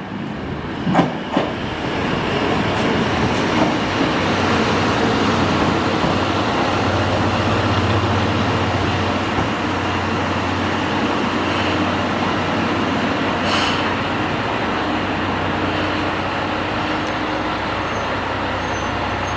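Mizushima Rinkai Railway MRT300 diesel railcar running with a steady low engine drone. Two sharp clacks come about a second in.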